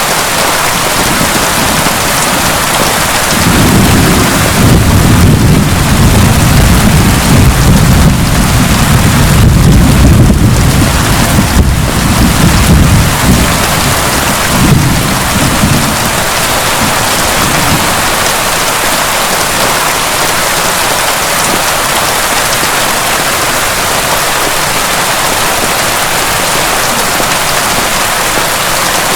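Heavy rain falling steadily, with a long roll of thunder rumbling low from about three seconds in. The thunder swells to its loudest about ten seconds in and dies away about sixteen seconds in, leaving the rain alone.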